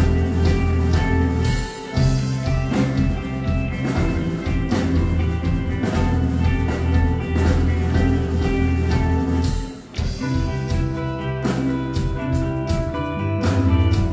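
Live post-rock band playing: sustained ringing chords over bass and steady drums, breaking off briefly twice, about two seconds in and about ten seconds in.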